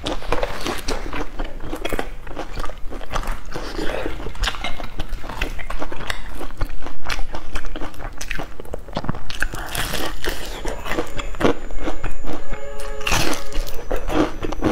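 Close-miked crunching and chewing of a crisp, crumb-coated fried patty, a rapid irregular crackle of bites and chews throughout.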